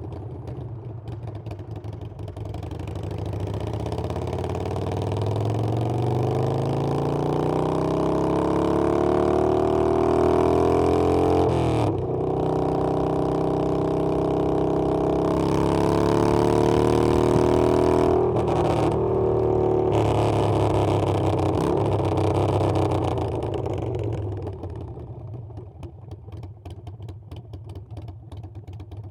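Harley-Davidson Iron 883's air-cooled V-twin running under acceleration, its pitch climbing with two short breaks for upshifts, about twelve and eighteen seconds in. It then holds steady before the revs fall away near the end as the bike slows.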